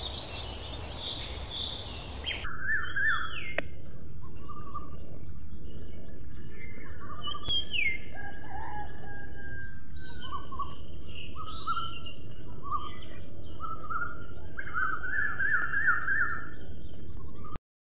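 Small birds chirping and calling in quick repeated phrases and trills, over a steady high hiss. A couple of seconds in, the sound changes abruptly to a busier chorus of chirps, which cuts off suddenly near the end.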